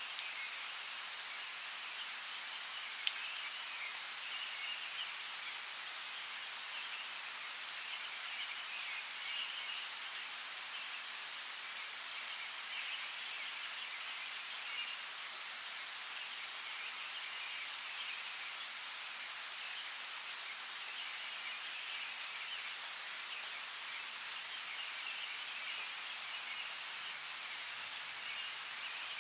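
Steady rain hissing, with individual drops ticking sharply now and then. A chirping chorus runs through it in the background.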